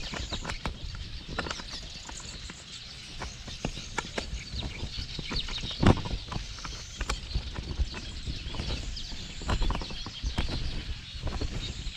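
Irregular clicks, taps and knocks of hands fixing a GoPro mount in place, with small birds chirping in the background.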